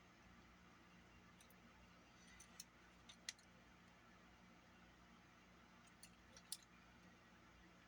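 Near silence with a few faint, sharp clicks in two small groups, about three seconds in and about six seconds in: small parts and tools being handled while a Walkman cassette mechanism is worked on.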